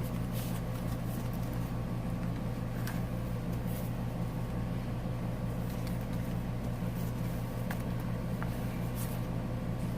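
A steady low electrical hum, like a fan or appliance running, with a few faint clicks and soft rustles of paper pages and tags being handled.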